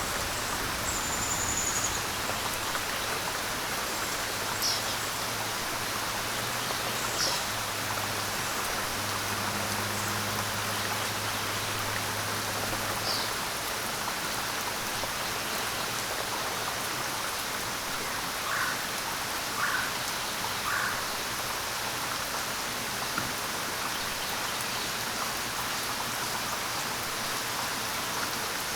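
Steady rain falling as an even hiss, with a few brief, faint high-pitched chirps or drips scattered through it.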